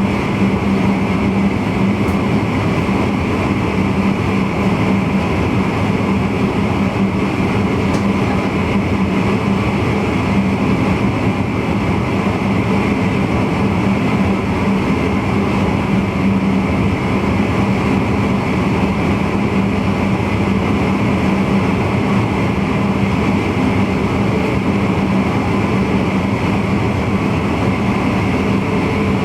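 Steady running noise of a VIRM double-deck intercity train heard inside the driver's cab, wheels on rail with a steady low hum.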